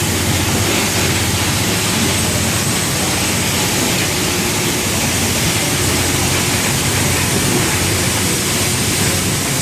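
Steady engine-room machinery noise aboard the steamboat Natchez: a continuous, even rushing roar with a low steady hum underneath, no beat or strokes.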